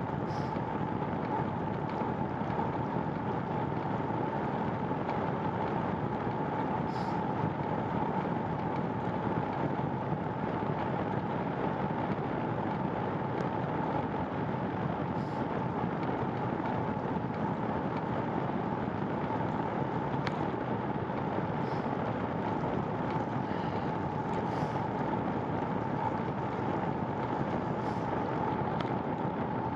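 Steady road and wind noise from a bicycle being ridden on wet pavement, with a steady hum running through it and a few faint clicks.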